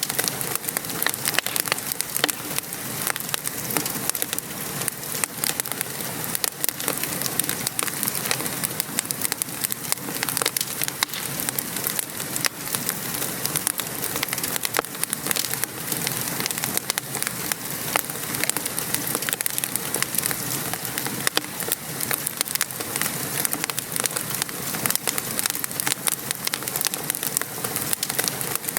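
Steady patter of rain on a surface with a wood fire crackling, many small pops and snaps scattered through a constant hiss.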